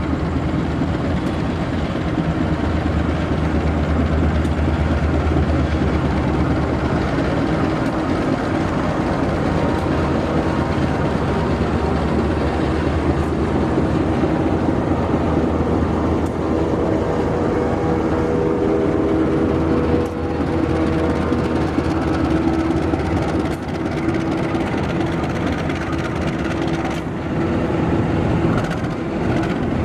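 Diesel locomotive engine running steadily, with its engine tones shifting in pitch partway through as the train moves.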